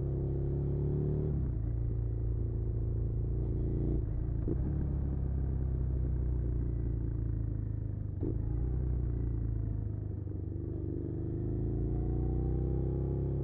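Suzuki SV650's 645 cc V-twin engine running under way on a ride. The engine note falls back just over a second in, breaks briefly about four and eight seconds in, and rises in pitch near the end as the bike speeds up.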